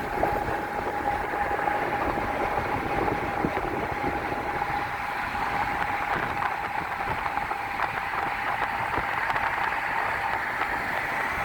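Steady road noise from a moving vehicle, with a constant mid-pitched whine held throughout.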